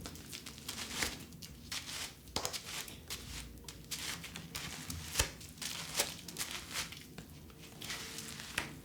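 Irregular crinkling and rustling with small sharp clicks: plastic and cardboard packaging being handled.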